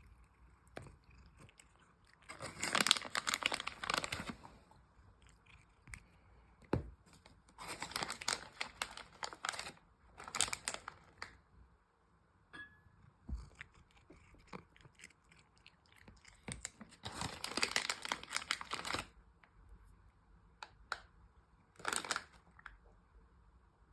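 A cat chewing and crunching dry food in bouts of a second or two, with short pauses between them.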